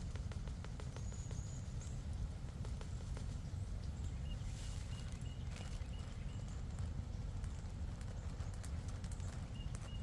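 Songbirds chirping: a quick run of short high notes about four seconds in and again near the end, with a brief high whistle early on. Underneath is a steady low rumble and many scattered light clicks and taps.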